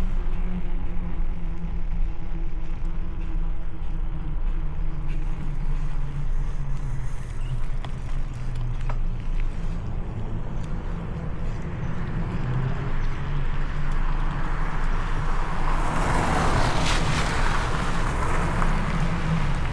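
Steady low rumble of wind and road noise on the microphone of a moving bicycle. Near the end a car approaches and passes, its tyre hiss swelling and then fading.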